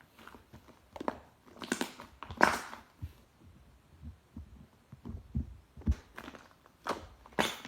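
White clay slime being squeezed and poked by hand: irregular sticky clicks and crackly pops with soft low thumps, the loudest crackle about two and a half seconds in and another just before the end.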